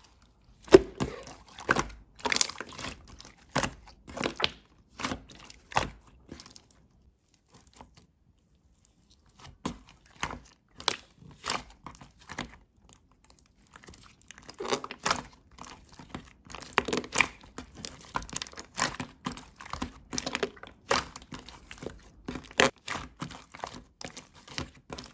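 Slime being squished and stretched by hand, a dense run of sticky crackles, pops and tearing sounds, with a pause of about two seconds near a third of the way in.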